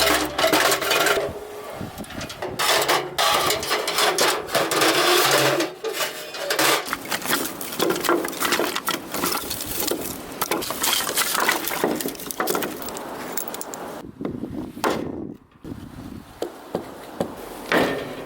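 Irregular wooden knocks and cracks, many strikes, as of firewood being handled and broken; a short quiet gap falls about fourteen seconds in.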